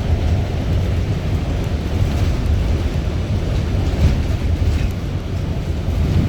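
Strong wind buffeting the microphone: a loud, unsteady low rumble with a fainter hiss above it.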